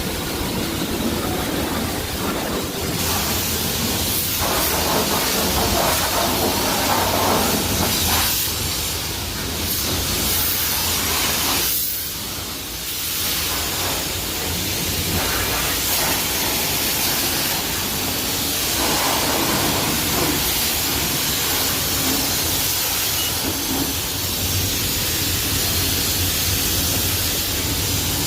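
High-pressure water spray hissing against a car's body, rising and falling as the spray moves, with a brief lull about twelve seconds in.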